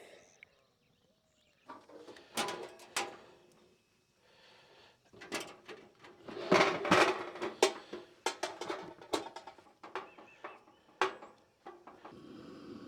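Camp cooking gear being handled: a series of knocks and clatters, loudest about halfway through, then a steady hiss for the last second or so.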